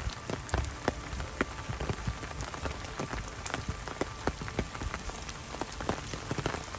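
Steady rain, with many separate drops landing close by in irregular sharp taps.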